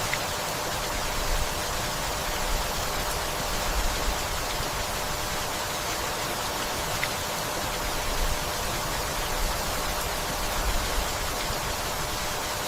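Steady rainfall, an even hiss, with brief low rumbles swelling up every few seconds.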